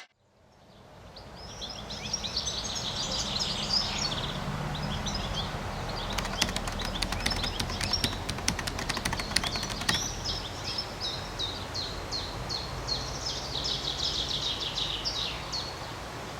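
Birds chirping over a steady low hum, with a fast rattle of clicks for a few seconds in the middle.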